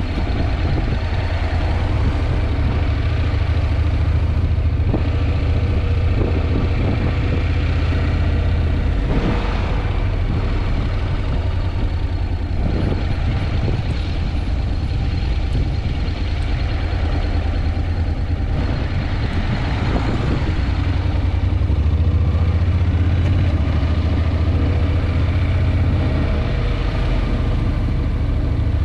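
Wind buffeting the action camera's microphone while riding a Honda NC750X motorcycle: a loud, steady, low rumble, with the bike's 745 cc parallel-twin engine running beneath it.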